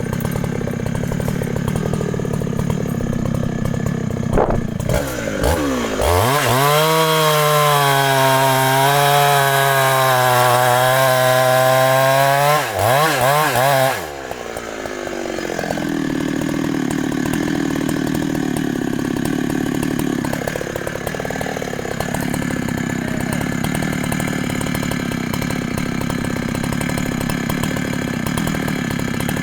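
Large professional Husqvarna chainsaw running: it revs up sharply about five seconds in, holds high revs with a steady pitch until about halfway, then drops back to lower, steady running.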